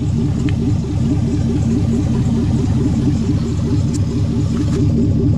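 LS-swapped Camaro's GM LS V8 idling steadily and evenly, warmed up to about 160 degrees.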